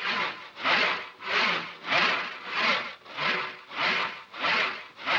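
Hand saw cutting back and forth through a wooden box in quick, even strokes, about one and a half strokes a second.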